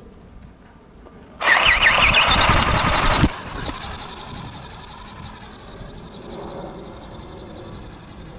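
Motor of a flapping-wing model bird running, with a whine that wavers quickly as the wings beat. It comes in loud about a second and a half in, drops suddenly about two seconds later, and runs on more quietly.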